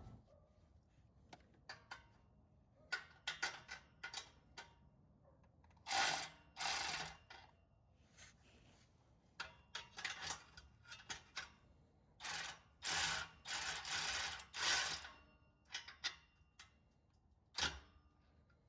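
Hand ratchet wrench clicking in short bursts as exhaust bolts are snugged up, loudest about six seconds in and again in a run of strokes around twelve to fifteen seconds.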